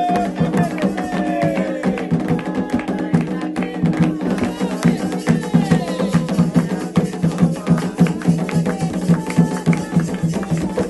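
Candomblé ritual music: dense, rapid hand-drum and percussion strikes with voices singing over them.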